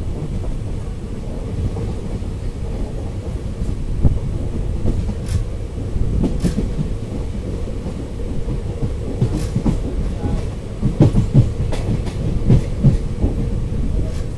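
Passenger train running along the track, heard from aboard: a steady low rumble of wheels on rails, with clickety-clack of wheels over rail joints that comes in louder clusters in the last few seconds.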